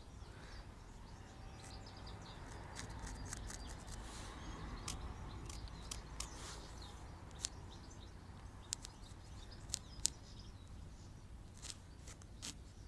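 Pencil sketching on a wooden board: faint scratching strokes with scattered small ticks and taps.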